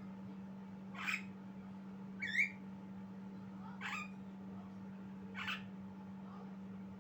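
Javan myna giving short harsh calls, four in all, spaced about one and a half seconds apart. The second, about two seconds in, is a squeakier chirp and the loudest. A steady low hum runs underneath.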